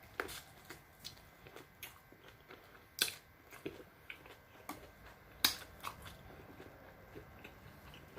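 Quiet chewing and biting of chicken wings: scattered short, sharp mouth clicks and crunches, the loudest about three and five and a half seconds in.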